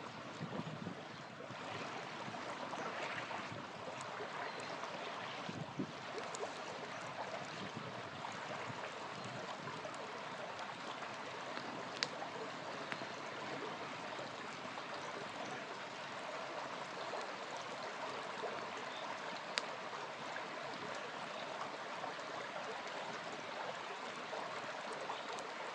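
A small river flowing steadily, with a few sharp pops from a crackling campfire, the clearest two about twelve and nineteen seconds in.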